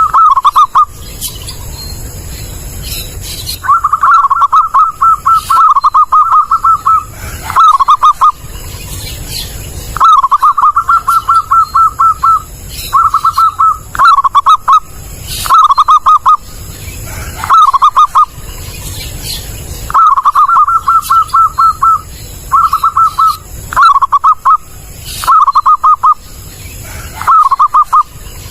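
Zebra dove (perkutut) singing loud, clear phrases of rapid staccato cooing notes, repeated every second or two with short pauses between them.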